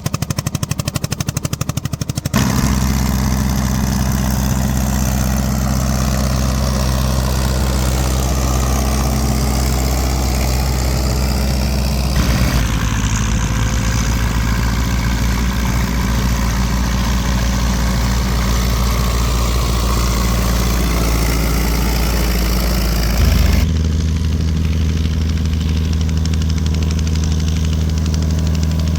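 Vintage tractor engines running steadily, in successive takes that cut abruptly from one engine to another about two, twelve and twenty-four seconds in; the first is a rapid, even pulsing beat.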